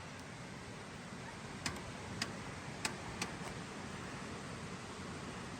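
A few faint, sharp clicks at uneven intervals over a low steady hiss, as a long-unused engine is tried and does not start: the battery is low, close to dead.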